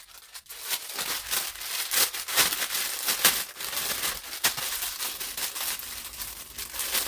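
Plastic packaging crinkling and rustling in the hands as a bagged item of craft supplies is handled and unwrapped. There are irregular crackles throughout, starting about a second in.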